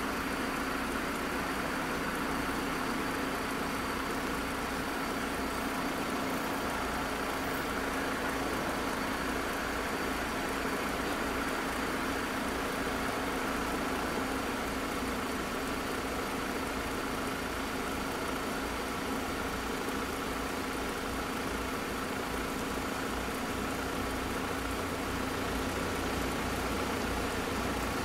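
A car engine idling at a closed level crossing, under the steady electronic warning tone of the crossing's AŽD 97 signals, which are active with barriers down.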